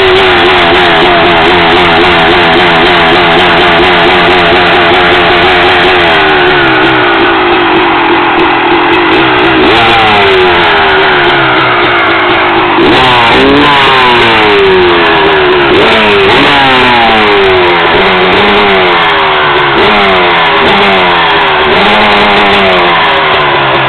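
1999 Honda CR250R's two-stroke single-cylinder engine running loudly just after being started from storage. It holds a steady, slightly wavering speed for about six seconds. Then it is blipped with the throttle over and over, the pitch jumping up and falling back about once a second.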